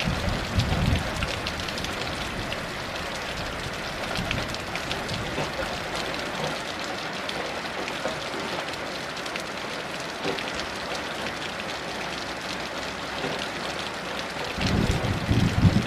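Heavy rain falling steadily, with low rumbles of distant thunder in the first second and again near the end.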